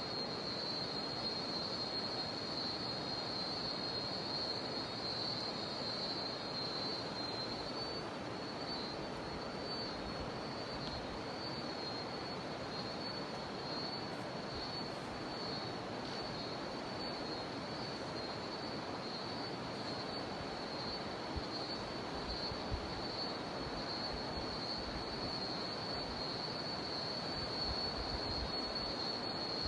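Cicadas droning steadily on one high, shrill note over the continuous rush of a jungle river.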